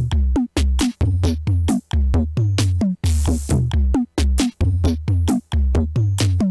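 Electronic music on a drum machine, likely an IK Multimedia UNO Drum: a loud, busy beat of short hits, many dropping quickly in pitch, over a low bass pulse. It starts suddenly at the beginning and keeps cutting to brief gaps between phrases.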